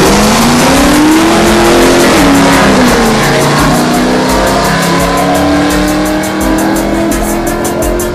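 A racing engine accelerating hard, its pitch climbing and then dropping back at gear changes and climbing again, getting a little quieter near the end.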